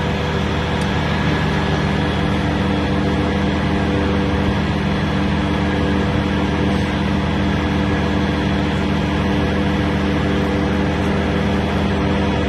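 An engine running steadily at a constant speed, giving an even hum that does not change.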